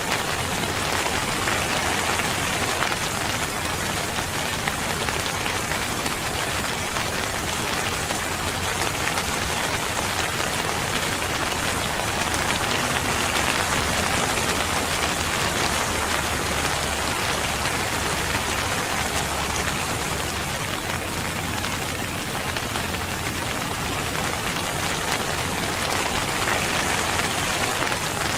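Steady, heavy rain falling, an even dense hiss of drops on a surface.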